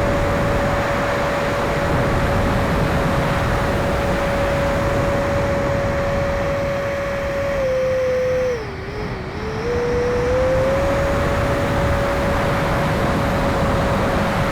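Electric ducted fan of an E-flite F-16 70 mm 6S RC jet running with a steady high whine over a constant rush of air. About eight seconds in, the whine drops in pitch and level for a second or two as the fan slows, then spools back up to its former pitch.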